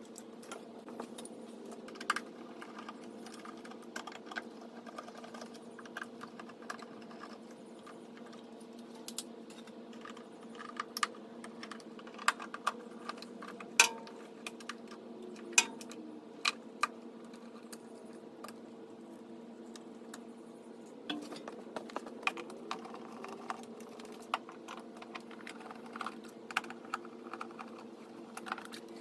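Irregular light clicks, taps and small rattles, as of wires, connectors and small parts being handled and pulled, over a steady hum.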